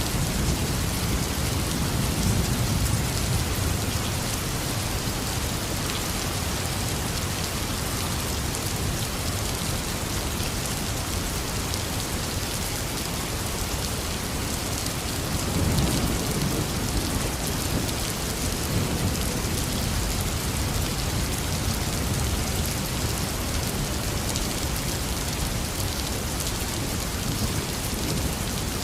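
Heavy, steady rain with rolls of distant thunder: a low rumble in the first few seconds and a stronger one about halfway through.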